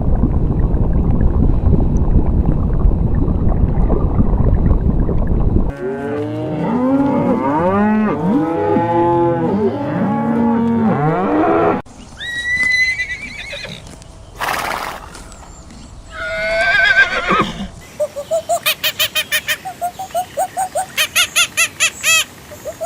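Farm animals calling in a run of short clips. First comes a low rumbling noise, then a herd of livestock calling over one another for several seconds, then a few short higher calls, and near the end a fast series of short repeated calls, about four a second.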